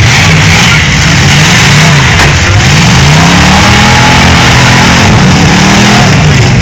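Demolition derby cars' engines revving hard, their pitch rising and falling again and again over a loud, constant din.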